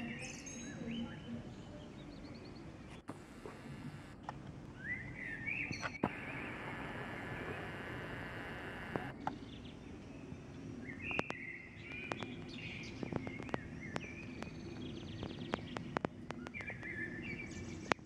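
Small birds chirping and twittering in short repeated phrases over a steady low background rumble, with scattered sharp clicks in the second half.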